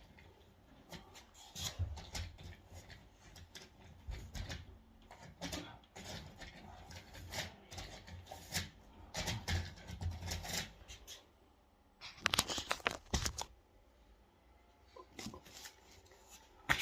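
Irregular rustling, scraping and knocking from dryer vent cleaning work, with a louder run of scraping about twelve seconds in.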